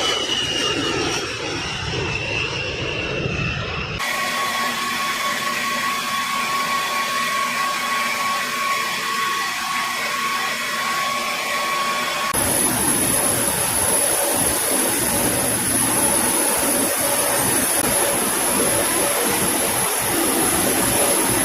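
B-52 bomber's jet engines running loudly with a steady turbine whine. The sound changes abruptly about four seconds in and again about twelve seconds in, as if cut between takes. In the first part the whine falls slowly in pitch.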